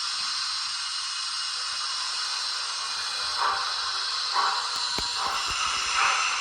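H0 scale model train running on the track, a steady hissing rush, with a single sharp click about five seconds in.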